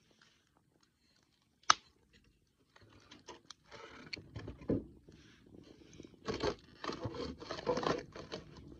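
Wood campfire crackling: one sharp loud pop about two seconds in, then a dense run of irregular crackles and pops from about three seconds on.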